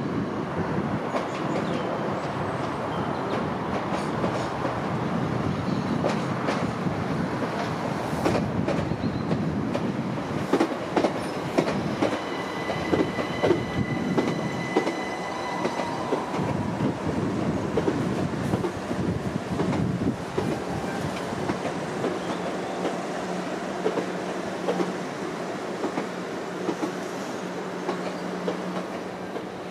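Southern Class 377 electric multiple unit running along the platform, its wheels clacking over the rail joints. A high whine comes in for a few seconds midway, and the train sound slowly fades near the end as it moves off.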